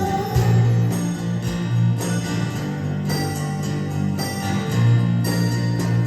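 Instrumental passage of a song, led by guitar with plucked and strummed chords over sustained bass notes. A singer's held note fades out just after the start.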